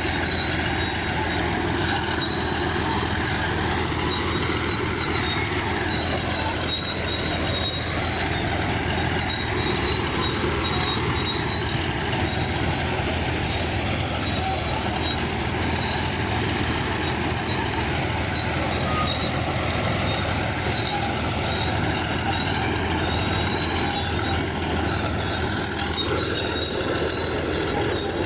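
Bulldozer working: steady, loud machine noise with a thin high whine over it.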